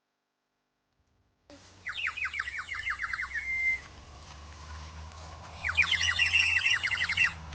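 Songbird singing two phrases, starting about a second and a half in: each a fast run of quick notes, the first ending in a short held whistle, over a low steady background rumble.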